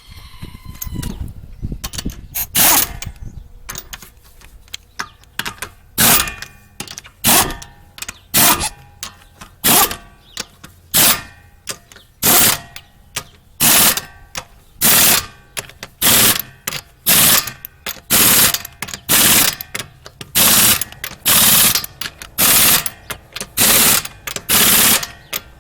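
Impact wrench running lug nuts down onto a wheel hub in a long string of short hammering bursts, about one every second.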